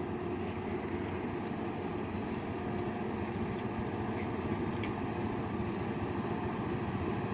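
Truck diesel engine labouring steadily in first gear on low range as the truck crawls slowly up a slippery climb. A thin, steady high-pitched whine sits above the engine's rumble.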